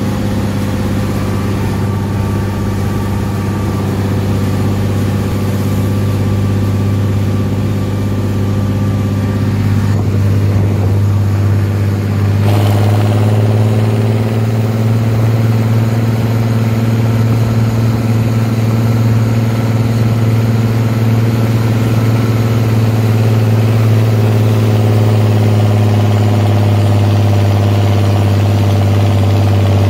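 Lamborghini 1706 tractor's turbocharged diesel engine running steadily on an open pipe with no silencer. About twelve seconds in, the engine speed steps up slightly and then holds steady.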